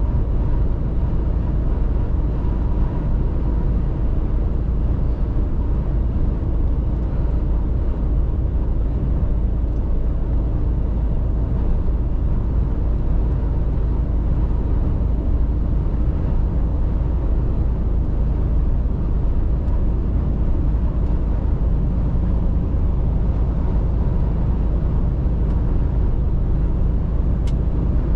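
Mercedes-Benz Actros truck on the move, its engine and road noise making a steady, unchanging rumble.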